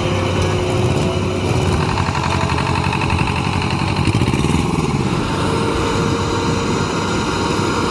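Volvo FH16 heavy-haul truck's diesel engine running steadily under load while pulling an oversize wheel-loader load.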